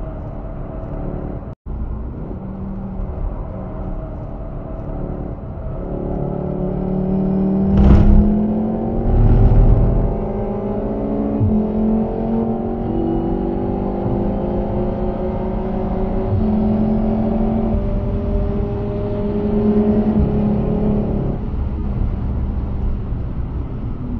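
VW Golf VII R's turbocharged 2.0-litre four-cylinder accelerating hard through the gears, heard with road noise inside the cabin. The engine pitch climbs steadily and breaks a few times. Two loud thumps come about 8 and 9.5 seconds in.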